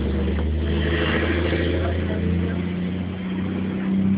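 A steady low hum of an engine running.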